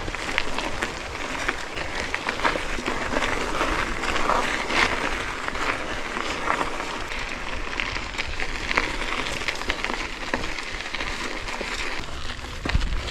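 Mountain bike riding uphill on a rocky, gravelly trail: tyres crunching over loose stones, with many scattered clicks and rattles.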